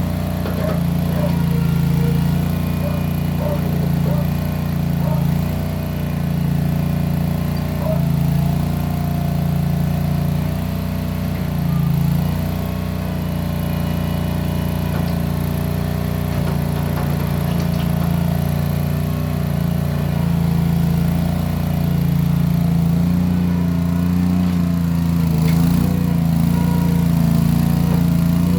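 Case 1816 skid steer's engine running steadily through its round mufflers, the note swelling and easing a little every few seconds as the machine works.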